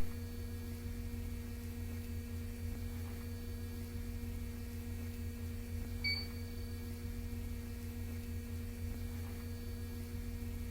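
Steady electrical hum of an R160B Siemens subway car standing with its equipment running. About six seconds in, one short high beep.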